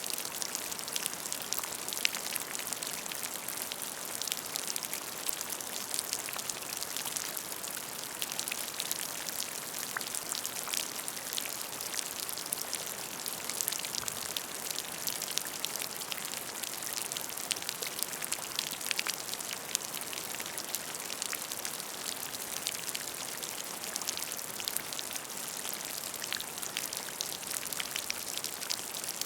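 Rain falling steadily onto a puddle: a continuous patter with many distinct drops plinking into the water.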